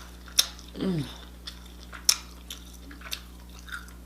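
Close-miked eating sounds: sharp crunching bites and wet chewing of seafood, with a short falling 'mm' hum of enjoyment about a second in.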